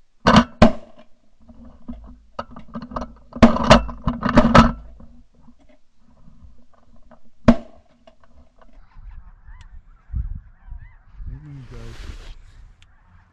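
Shotgun blasts amid a flock of snow geese calling. Two shots come in quick succession at the start, a cluster of loud reports comes around four seconds in and a single shot about seven and a half seconds in, and goose honking carries on underneath.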